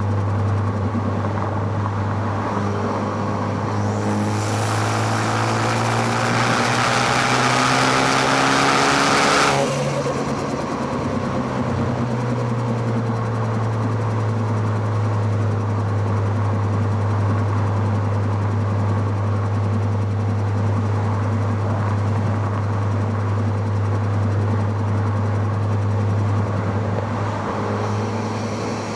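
Car engine heard through microphones near the intake and exhaust. It accelerates hard for about five seconds with rising pitch and a loud intake rush, then cuts off suddenly when the throttle is lifted, and settles back to a steady low drone at cruise.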